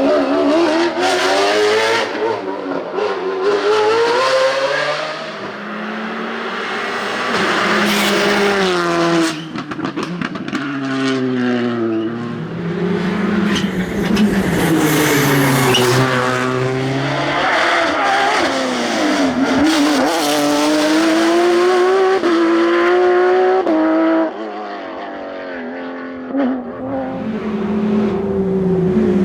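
Racing cars' engines revving hard up a hillclimb course, pitch climbing through each gear and dropping at the shifts and on lifts. It changes abruptly from one car to another twice.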